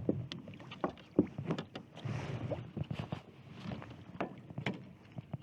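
Scattered knocks, clicks and water splashes around a kayak as a hooked trout is fought beside the hull.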